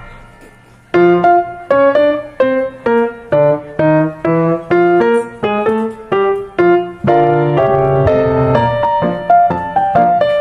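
Background piano music: a melody of single struck notes, each fading after its attack, quiet for the first second before the notes resume.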